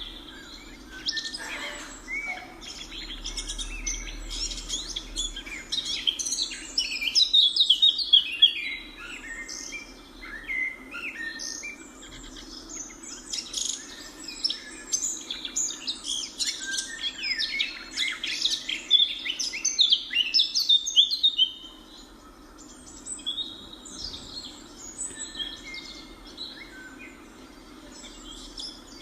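A flock of birds chirping and calling over one another in a dense, rapid chorus, loudest a third of the way in and again past the middle, thinning out for the last few seconds. A steady low hum runs underneath.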